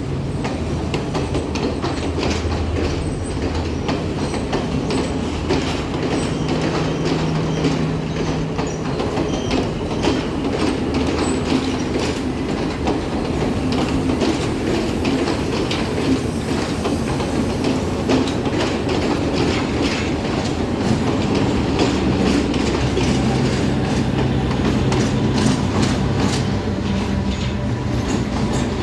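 A train moving through the station, its wheels clicking over the rail joints, with a steady low engine hum.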